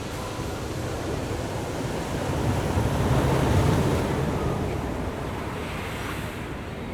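Ocean waves breaking on the shore, one wave's surge swelling to a peak about halfway through and then easing back, with some wind noise on the microphone.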